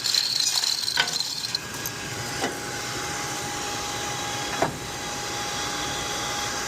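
Steady mechanical hiss of running machinery with a thin steady tone, broken by three short sharp knocks about one, two and a half, and four and a half seconds in.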